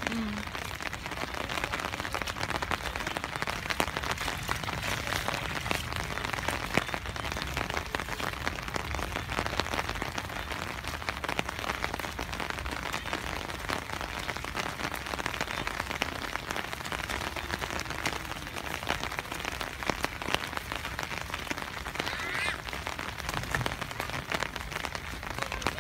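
Steady rain falling: an even hiss thick with small drop ticks.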